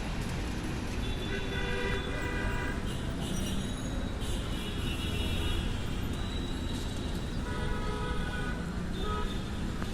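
Steady city traffic with vehicle horns sounding three times, each blast lasting a second or more.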